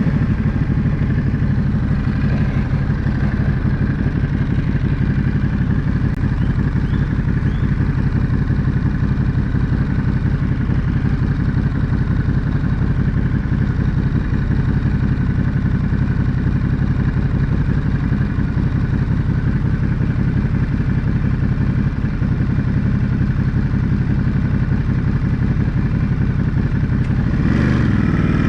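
Ducati Monster 937's 937 cc L-twin engine idling steadily at a stop. Near the end it revs up as the bike pulls away.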